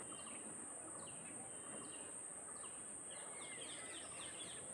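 Faint birds chirping in the background: repeated short, falling chirps over a steady high-pitched hiss.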